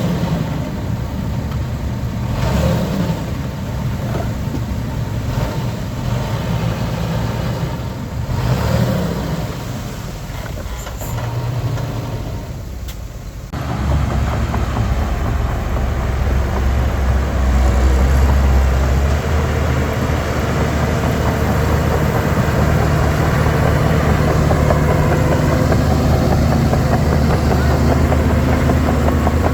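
Heavy diesel earthmoving machinery running, its engine rising and falling through the first half. About halfway through the sound suddenly becomes louder and deeper and then holds steady.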